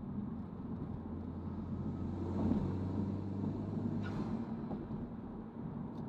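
Honda Civic Type R's turbocharged 2.0-litre four-cylinder, fitted with a Mishimoto cold-air intake, running under way and heard from inside the cabin with road noise. A rushing noise swells and fades about four seconds in.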